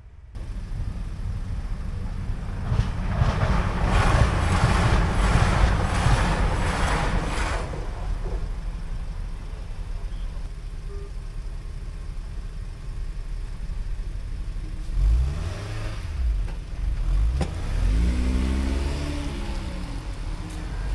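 A train passing over a level crossing: a heavy rumble with rhythmic wheel clatter about twice a second for several seconds, then easing off. Near the end, car engines rise and fall in pitch as waiting cars pull away across the crossing.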